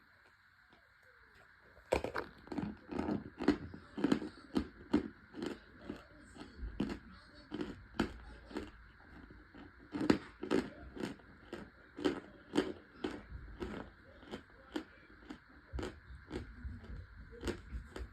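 Someone chewing crunchy chunks and toasted crumbles of cornstarch close to the microphone: quick crisp crunches, about three a second, starting about two seconds in.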